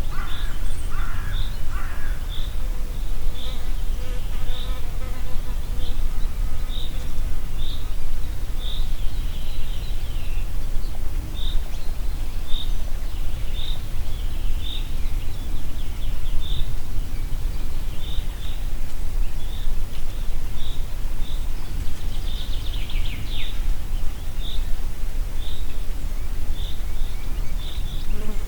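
Wind blowing through a forest as a steady low rumble, with a bird repeating a short high chirp about once a second. Other birds sing briefly at the start, and a quick falling trill comes about two-thirds of the way through.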